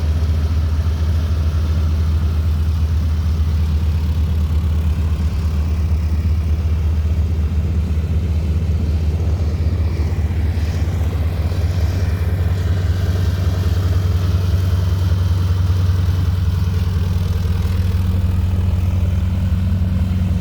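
A steady, loud low engine drone that holds the same pitch throughout.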